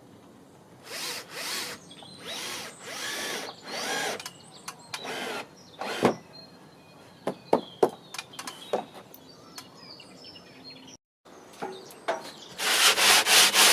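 Several short bursts of a power tool, likely a drill, working on the wooden worktop, followed by a few sharp knocks. Near the end, sanding of the wood begins with quick, even back-and-forth strokes.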